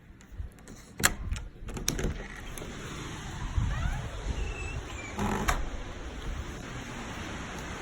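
A few sharp clicks and a knock over a steady rush of wind and rain that builds up about two seconds in.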